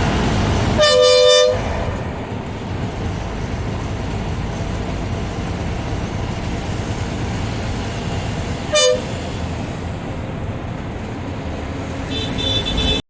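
Bus horn sounding a long blast about a second in and a short toot near the nine-second mark, over the steady rumble of the bus engine and tyres on the road.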